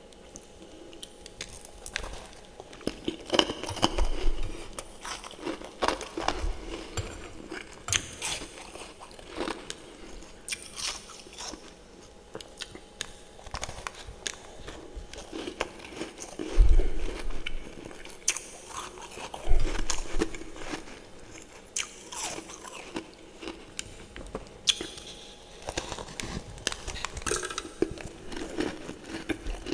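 Close-up crunching and chewing of refrozen freezer frost topped with fresh, powdery frost: irregular crisp bites and crunches, a few much louder ones around a quarter of the way in and past the middle.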